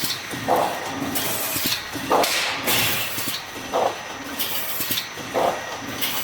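Full automatic BRC wire mesh welding machine running through its welding cycle. A short knock and bursts of hiss repeat about every second and a half.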